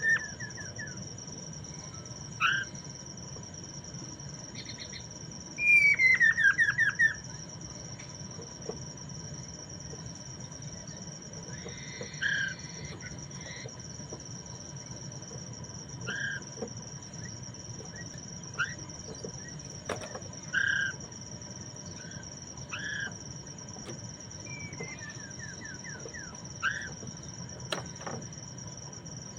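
Poksay Mandarin laughingthrush calling: a quick, loud falling run of notes about six seconds in, then short separate call notes every two or three seconds. A steady, high cricket-like drone runs underneath.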